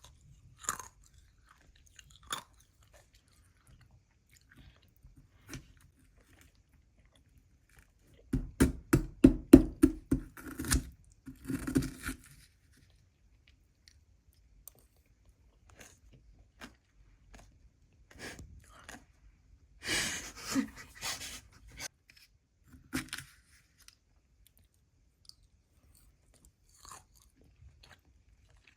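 Close-up chewing and crunching of shaved ice, in bursts. There is a run of quick crunches about eight to twelve seconds in and another shorter run about twenty seconds in, with small scattered clicks in between.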